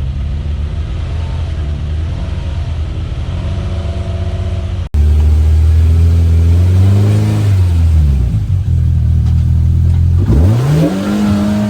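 Side-by-side UTV engine working hard on the trail, its revs surging up and dropping back again and again. It runs steadily at first, then gets abruptly louder about five seconds in, with a quick rev up and down near the end.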